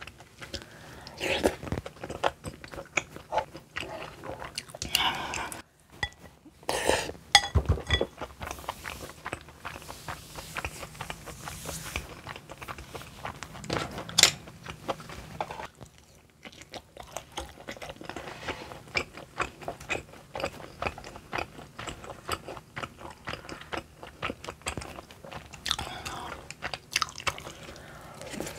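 Close-miked chewing of rosé tteokbokki, chewy rice cakes in a creamy sauce, as a run of many short, wet mouth clicks and smacks.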